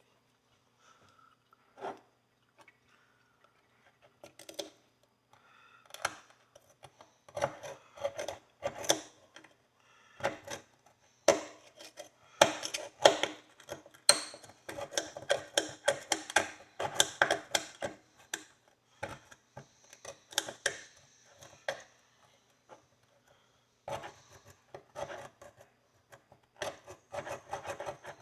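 An old pony horseshoe being scrubbed clean of rust by hand, in bursts of rapid back-and-forth scraping strokes with short pauses between them.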